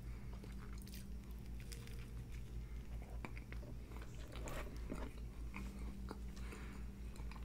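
Close-miked chewing of a bite of burger with fries tucked into it, with scattered small mouth clicks over a faint steady low hum.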